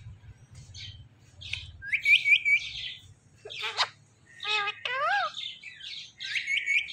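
Ringneck parrot calling: quick runs of three rising chirps about two seconds in and again near the end, with a short harsh call and a pair of whistled gliding calls in between.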